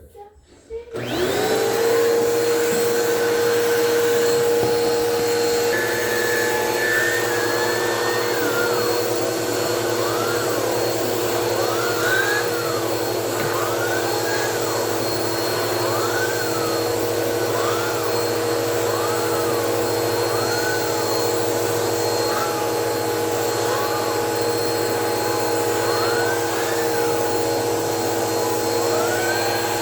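Vacuum cleaner switched on about a second in, its motor spinning up and then running steadily. From about six seconds in a higher tone rises and falls about every second and a half as the turbobrush attachment is worked back and forth.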